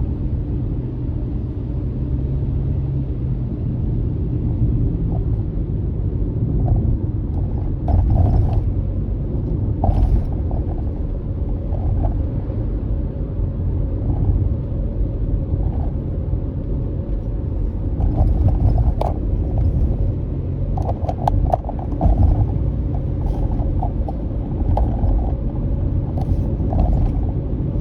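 Car driving along a road: a steady low rumble of engine and tyres, with scattered light knocks and rattles, more of them in the second half.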